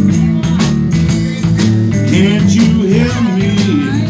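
Live blues band playing a steady beat with drums, bass and guitar. From about halfway through, a lead line bends up and down in pitch.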